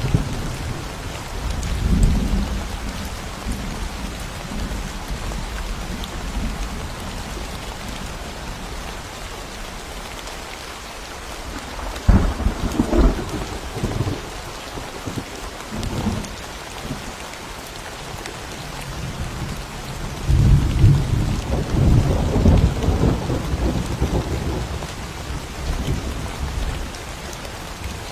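Thunderstorm: steady rain falling with thunder. A sharp crack comes partway through, and a longer rolling rumble follows later.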